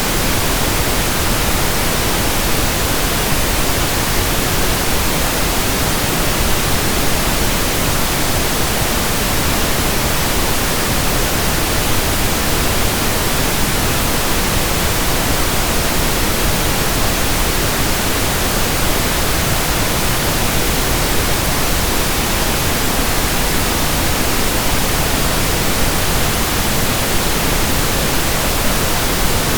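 Steady pink noise: an even, unchanging hiss spread across low and high pitches alike, with no tones or breaks.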